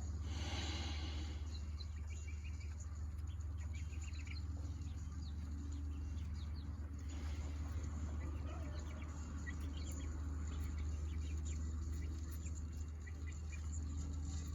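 Young chickens clucking and cheeping now and then, over a steady low rumble.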